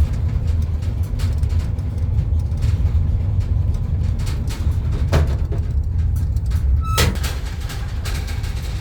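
Road noise inside a moving car: a steady low rumble from the tyres and engine, with frequent small rattles and knocks from loose things in the back of the vehicle.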